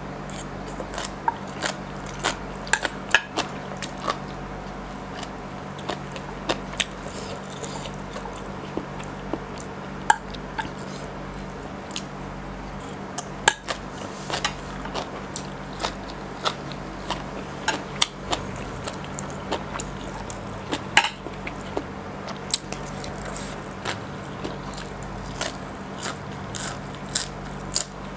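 Close-miked chewing and biting of shredded green papaya salad (som tam): irregular sharp, crunchy crackles, a few a second, over a steady low hum.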